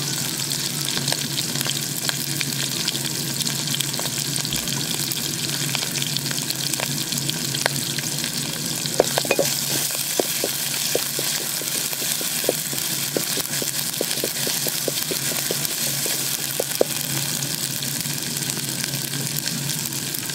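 Shrimp and green chilli paste frying in oil in a small metal pot, a steady sizzle. From about nine seconds in, a wooden spatula stirring, with a run of quick clicks and scrapes against the pot.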